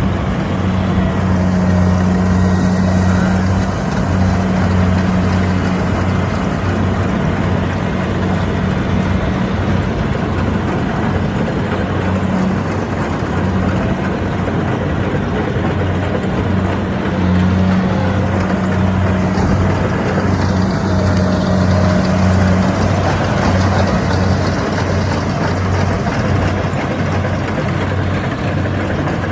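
Kubota combine harvester's diesel engine running steadily under load with an even low throb, over the dense clatter and whir of its cutting and threshing gear as it harvests rice in deep mud.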